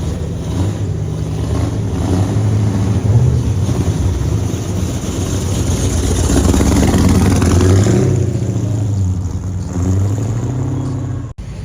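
Car engine running with a deep rumble, rising louder in the middle as it is revved and settling back down near the end.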